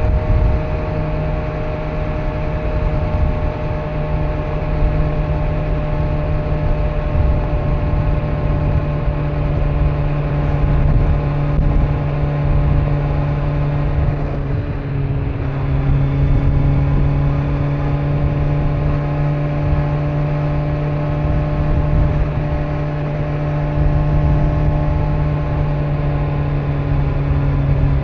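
Kawasaki Z900's inline-four engine with stock exhaust running at steady cruising revs under a low rumble of wind and road. The engine note drops in pitch about halfway through, then holds steady again.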